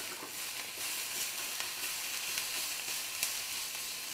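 Sliced onions and shredded chicken 65 sizzling in oil in a black kadai while a metal spatula stirs them, with a few light scrapes of the spatula against the pan.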